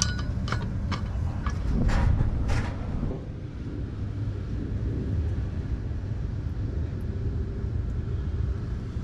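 Several short metal knocks and clinks of tools working under a car in the first few seconds, over a steady low rumble.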